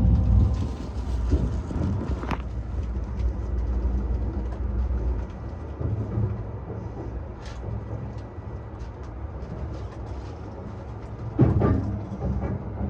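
E235 series electric train running along the track, heard from on board: a steady low rumble with scattered light clicks from the rails. The rumble eases about five seconds in, and there is a louder swell about eleven seconds in.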